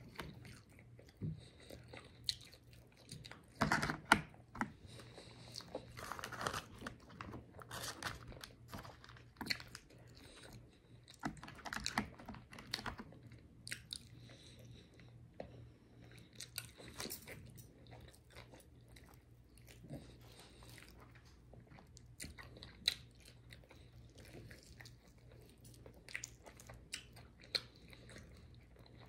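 A person biting and chewing fried chicken wings, with irregular crunches of the crisp skin, loudest about 4 and 12 seconds in.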